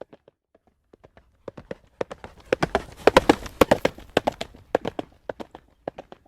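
Horse's hooves trotting on a road, a rhythmic clip-clop that grows louder and denser through the middle and then eases off again.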